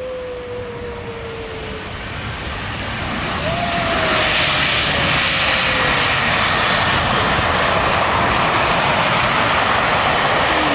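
Airliner on landing approach passing close, its engine noise growing louder over the first few seconds and then holding steady, with a whine that slides slowly down in pitch.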